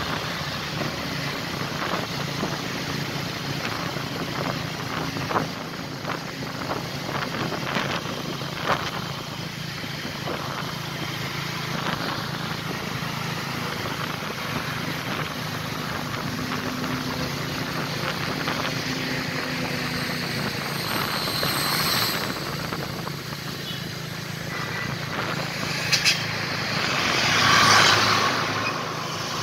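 Heavy truck's diesel engine running steadily under load on a climb, with a few sharp knocks about five, nine and twenty-six seconds in and a swell of road noise near the end.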